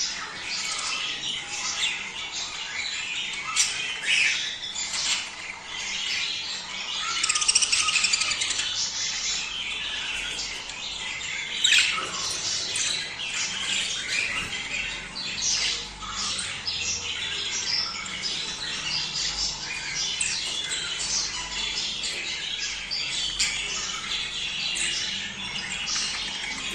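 A flock of budgerigars chattering and warbling without a break, with sharper squawks standing out several times.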